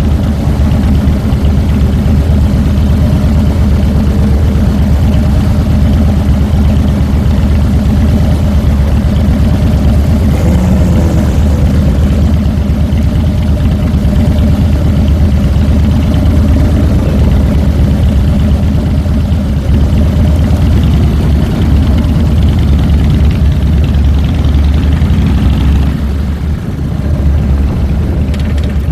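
2007 Harley-Davidson Fat Boy's Twin Cam 96 V-twin running steadily, heard close up from a handlebar-mounted camera, with a brief dip in level near the end.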